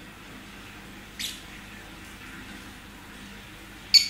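Lovebird giving two short, shrill chirps, a weaker one about a second in and a louder one near the end.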